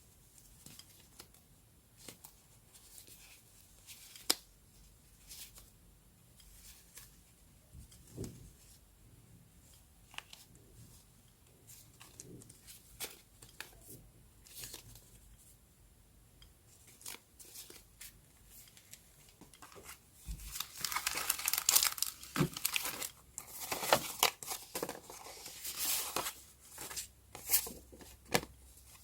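Paper handling for journal scrapbooking: scattered soft taps and rustles, then from about twenty seconds in a louder stretch of paper tearing and crinkling that lasts several seconds.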